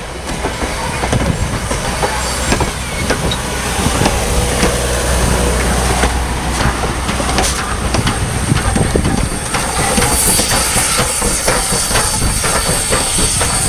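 Strasburg Rail Road train rolling past, its wheels clicking over the rail joints, with some hiss. Wind rumbles on the microphone underneath.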